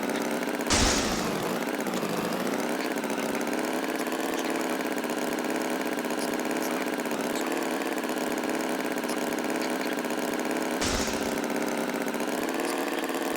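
A tractor engine idling steadily, with a short burst of noise about a second in and another near the end.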